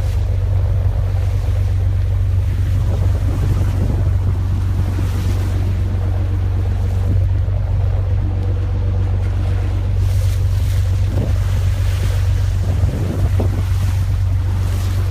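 Fishing boat's engine running with a steady low drone, with sea water and wind noise on the microphone.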